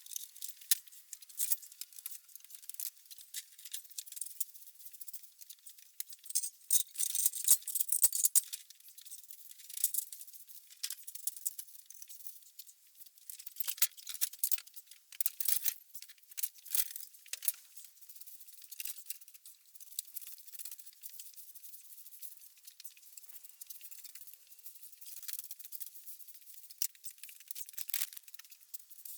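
A broom sweeping, in brisk, irregular scratchy strokes with short pauses between.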